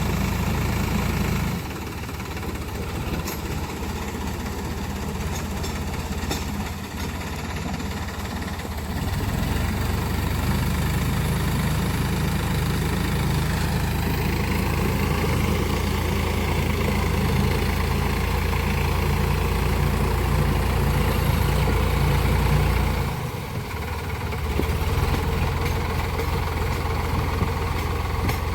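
Sonalika tractor's diesel engine running steadily. It eases off about a second and a half in, picks up again around nine seconds in, then dips briefly near the end before coming back.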